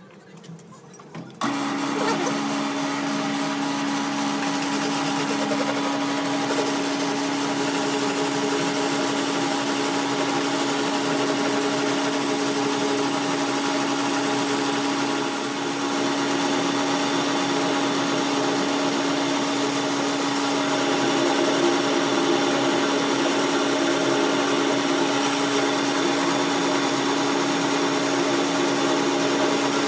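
An electric workshop machine starting about a second and a half in, then running steadily with a constant hum.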